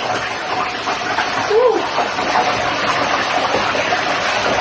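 Fish frying in hot oil in a pan: a steady sizzle with spattering.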